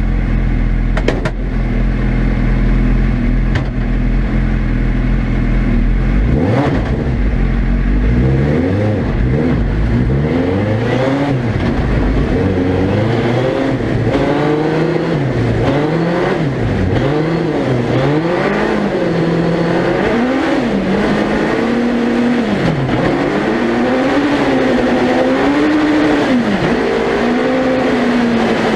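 Suzuki Hayabusa 1300cc inline-four motorcycle engine in a lightweight four-wheel-drive proto car, heard onboard: it runs at a steady idle for about six seconds, then revs up and down over and over as the car is driven.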